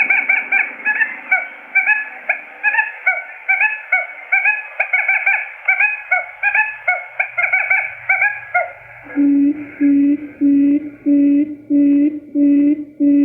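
Quail lure-call recording: quick repeated chirping notes, several a second. About nine seconds in it changes to a steady series of low hooting notes, just under two a second.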